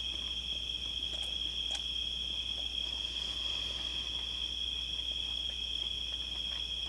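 Crickets trilling steadily at night in one high, unbroken tone, with a couple of faint clicks about a second in.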